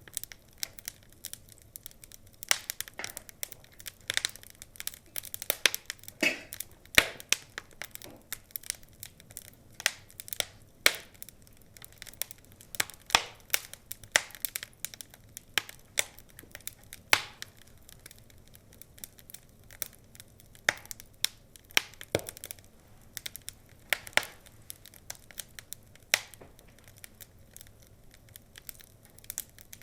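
Log fire crackling: a steady run of irregular small snaps with louder sharp pops every few seconds.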